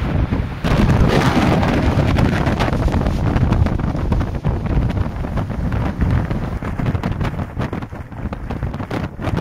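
Strong gale-force wind buffeting the microphone in gusts, a loud low rumble of wind noise. A stronger gust comes in about half a second in and eases a little near the end.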